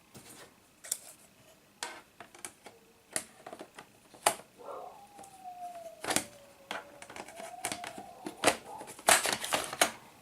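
Irregular sharp clicks and taps of hard plastic laptop parts being handled and snapped together, coming thicker and louder near the end.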